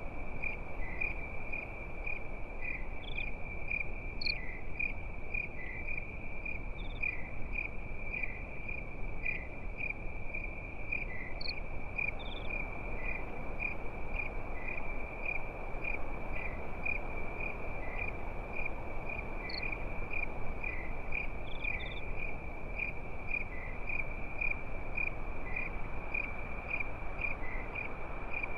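Crickets chirping at night: a steady high trill with quick, even pulses and a second rhythmic chirp just below it, over a soft, even background hiss.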